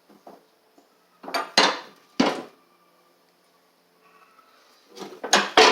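Metal clanks and clinks of spindle parts and hand tools being handled, in two short clusters: one about a second in and another near the end.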